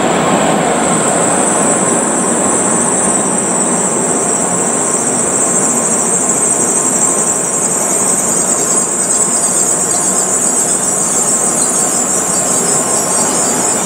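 N700-series Shinkansen train running along the tracks: a steady, loud rush of wheel and running noise with a high hiss above it.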